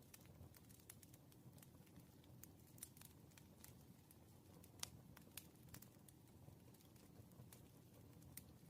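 Wood fire crackling faintly: irregular small pops and snaps over a low, steady rumble, with one sharper snap about five seconds in.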